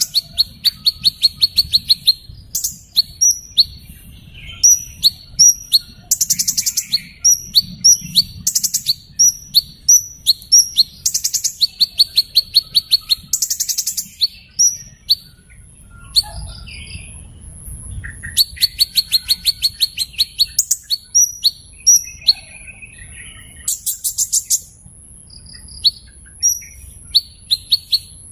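Small bird calling continuously: sharp, high chirps alternating with fast buzzy trills, over a faint low hum. A thin, steady high tone runs through the middle stretch.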